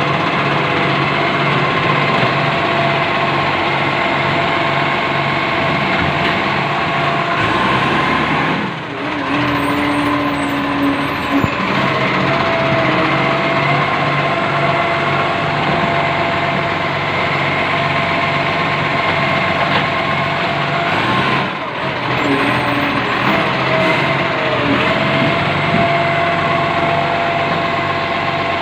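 An engine running steadily, with a steady whine over a low pulsing rumble; the sound dips briefly about nine seconds in and again about twenty-two seconds in.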